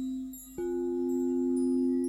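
Singing bowls ringing: a low steady bowl tone sounds, dips briefly, then about half a second in another bowl is struck and rings a slightly higher steady tone alongside the first, with faint high ringing tones above.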